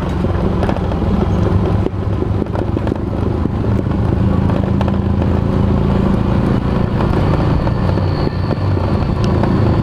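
Honda Supra motorcycle's engine running steadily while being ridden.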